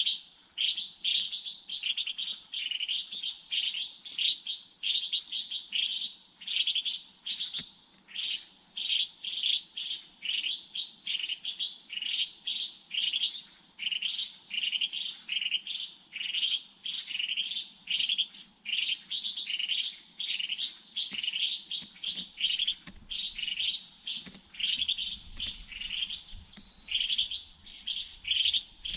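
Small bird chirping over and over: short, high chirps about twice a second, unbroken throughout.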